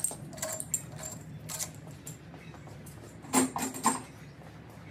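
Loose steel engine bolts clinking against each other and against metal as they are handled and set down: a few light clinks in the first two seconds, then a louder jangle of ringing clinks about three and a half seconds in.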